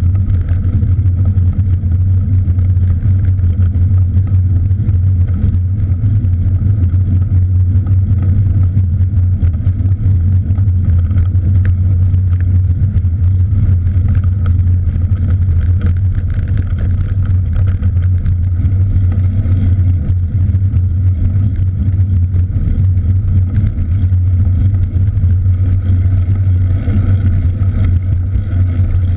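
Steady low rumble of wind buffeting and tyre noise picked up while riding a cross bike, unbroken throughout.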